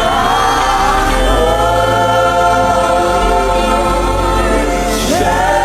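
Gospel worship music: a choir singing long held notes of a slow worship song over a steady bass and keyboard accompaniment, with a new sung phrase entering about five seconds in.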